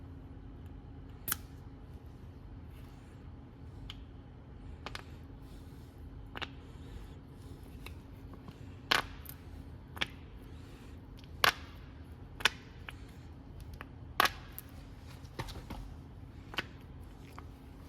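About a dozen sharp clicks and knocks at irregular intervals, as tools and parts are handled, over a steady low hum.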